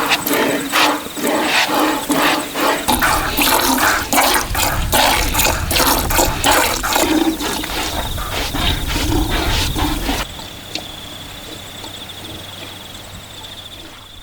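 Water splashing and bubbling, dense and irregular, cutting off abruptly about ten seconds in. A quieter background follows, with a steady high chirping.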